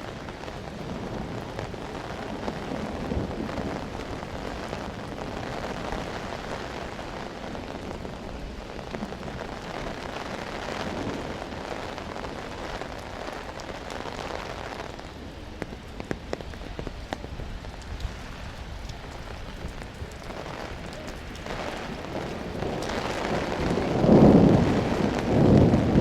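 Steady rain falling and pattering on the street. Near the end a loud, low rumble of thunder swells up and dominates.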